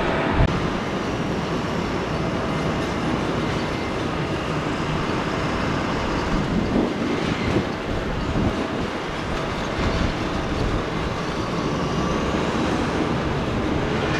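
Jet airliner engines running, a steady rush of noise with faint high whining tones over it.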